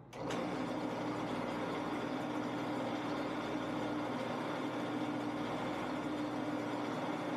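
Shopsmith running as a wood lathe with a steady motor hum and an even hiss, the spinning maple peppermill blank being burnished with a handful of its own sawdust.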